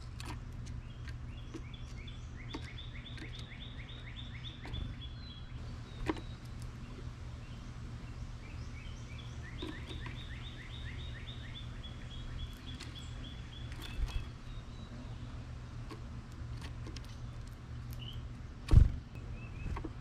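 Songbird singing twice, each song a rapid trill of repeated notes lasting about four seconds, over a steady low hum. A few knocks, the loudest a thump near the end.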